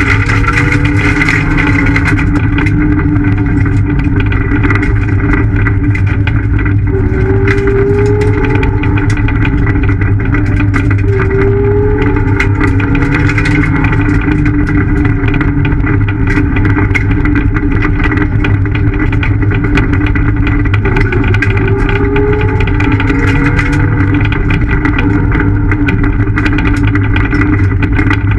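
Ford Fiesta ST's engine heard from inside the cabin, running hard at speed, with the revs climbing several times as it accelerates.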